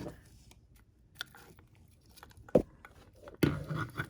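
Hands handling small objects and packaging: scattered light clicks, a sharp knock about two and a half seconds in, then a louder stretch of clattering and rustling near the end.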